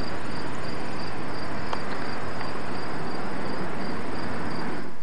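Freight train of enclosed autorack cars rolling past close by: a steady, loud noise of wheels and cars on the rails, with a faint high chirp repeating two or three times a second above it.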